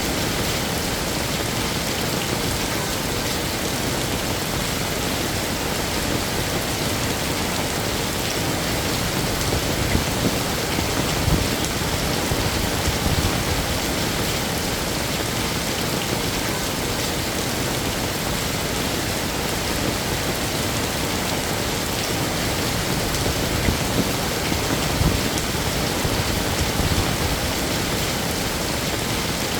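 Heavy rain falling steadily, a dense even patter of drops on hard surfaces, with a few slightly louder spatters here and there.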